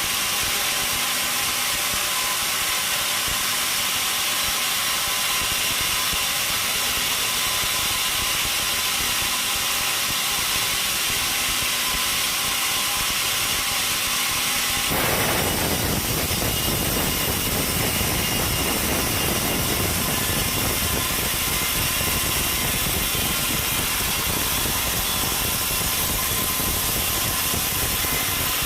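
Sawmill machinery running steadily and loudly. About halfway through, the sound turns abruptly denser and deeper.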